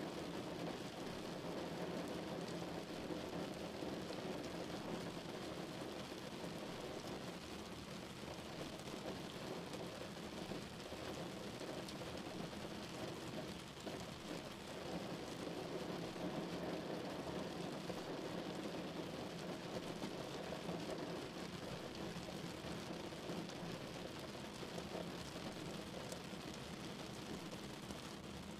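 Steady hiss of rain on the car and tyres on the wet road, heard from inside the car's cabin.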